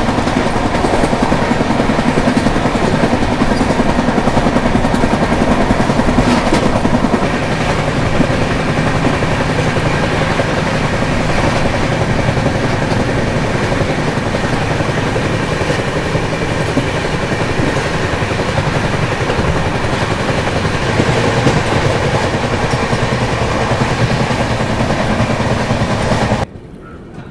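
Express passenger train running at speed, heard from an open coach doorway: a loud, steady noise of wheels rolling on the rails. The sound drops away suddenly near the end.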